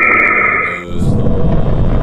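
Eerie space-sound recording: a few steady high tones over a hiss, cut off just under a second in, then a low, rumbling noise.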